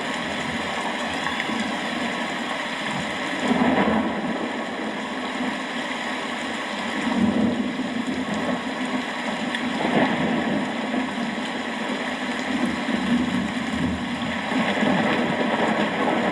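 Steady rain with rolls of thunder that swell louder several times.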